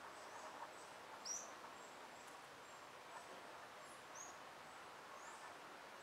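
Birds chirping faintly: a few short, high calls, the loudest about a second in and another about four seconds in, over a quiet background hiss.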